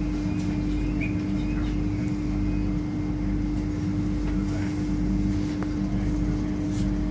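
Interior running noise of a moving PESA Elf electric multiple unit: a steady low rumble with a constant hum and a few faint clicks.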